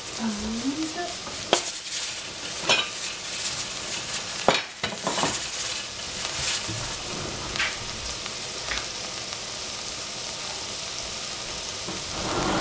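Sliced shiitake mushrooms frying in olive oil in a stainless steel saucepan: a steady sizzle broken by scattered sharp pops and crackles, about seven of them.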